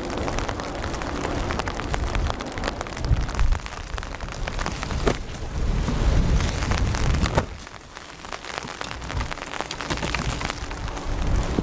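Rain shower, with drops striking close to the microphone as many sharp irregular ticks over a low rumble.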